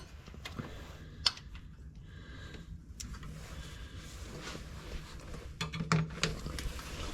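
Scattered light metallic clicks and clinks of a socket wrench and bolts being handled while the water pump bolts are taken out, with a small cluster of clicks about six seconds in.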